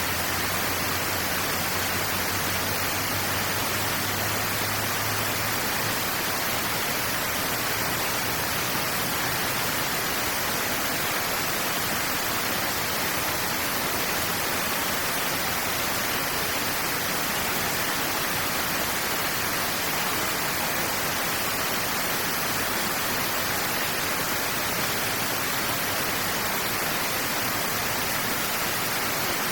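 Steady rush of water flowing through a drainage channel, an even hiss with no breaks.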